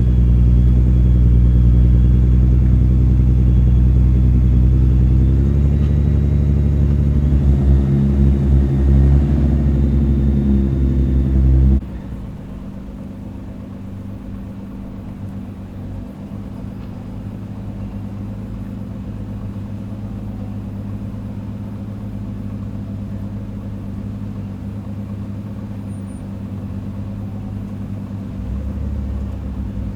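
Nissan GT-R engine idling steadily with a deep low rumble, rising slightly in pitch about five seconds in. About twelve seconds in the sound drops abruptly to a quieter, steady low engine rumble.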